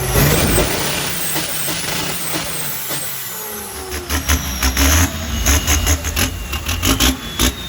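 Big truck: a long hiss of compressed air, like an air brake release, then the diesel engine revving in rapid pulses from about four seconds in, with a whistle rising in pitch over it.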